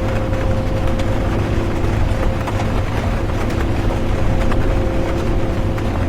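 Interior of a bus on the move: a steady low engine and road rumble with a constant drivetrain hum. Light rain adds faint scattered ticks.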